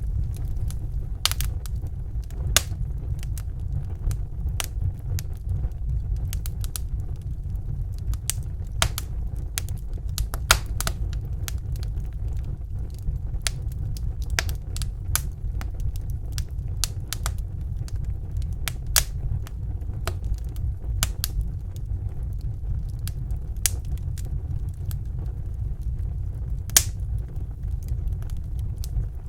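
Fire in a fireplace crackling, with irregular sharp pops and snaps, a few louder ones, over a steady low rumble.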